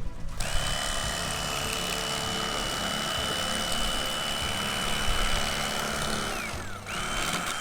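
Electric fillet knife running at a steady high whine as it cuts through a black wing snapper's backbone. It winds down about six seconds in and starts up again just before the end.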